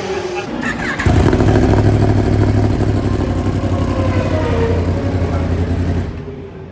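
Motorcycle engine running loudly at a fairly steady pitch, cutting in abruptly about a second in and dropping away near the end.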